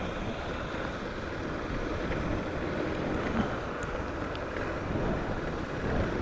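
Suzuki DR650's single-cylinder engine running under steady wind rush on a helmet-mounted microphone while riding.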